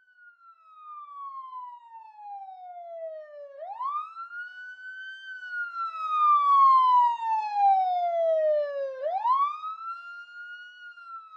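Siren wailing in long cycles: the pitch climbs quickly, then falls slowly over about three seconds, climbing again about three and a half seconds in and again about nine seconds in. It is a clean, single tone with no other sound behind it.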